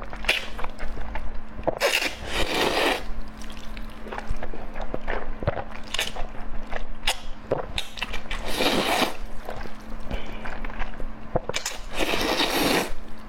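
Close-miked eating sounds: wet chewing with many small smacking clicks, and three longer noisy bursts about two, eight and a half and twelve seconds in.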